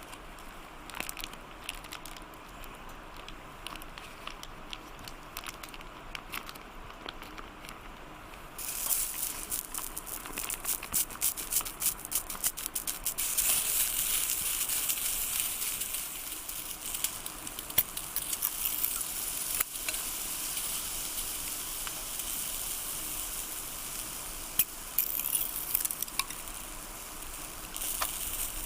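Food frying over a campfire: light crackling of the fire, then about nine seconds in a loud sizzle starts suddenly and keeps going with dense crackles and spatters, growing louder again a few seconds later.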